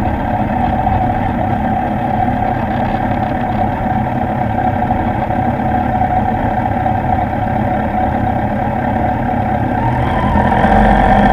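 Motorcycle engine idling steadily, picking up a little near the end.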